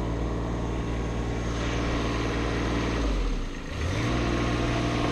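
A large engine running steadily; about three seconds in its pitch drops briefly, then comes back up and runs on.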